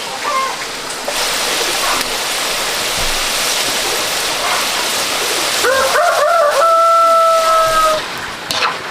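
A rooster crows once, starting a little before six seconds in: a rising call that holds a long steady note for about two seconds and then drops away. Before it, a steady hiss fills the background.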